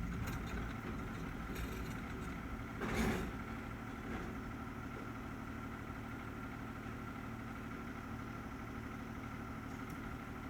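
Garbage truck engine idling steadily, with one loud clattering impact about three seconds in.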